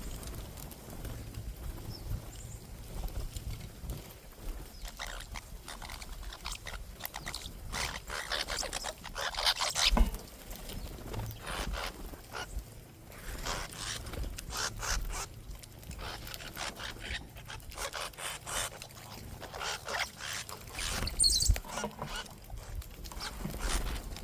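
Birds at a backyard seed feeder: irregular taps, scrapes and wing flutters as they peck and jostle for seed, with a couple of louder knocks and a short high bird call near the end.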